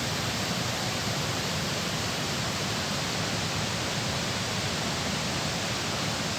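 Steady rush of water flowing over a dam, an even noise without breaks.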